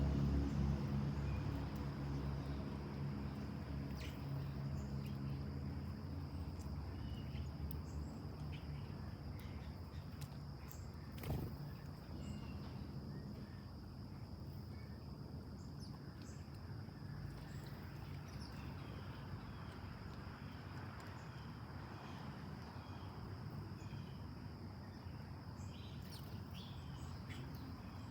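Steady late-summer insect chorus, a continuous high-pitched drone, with scattered short bird chirps. A low hum fades away over the first several seconds, and there is a single sharp click about eleven seconds in.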